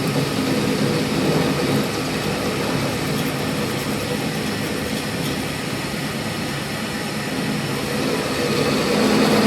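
Steady, continuous machine noise from workshop machinery running without pause, swelling slightly near the end.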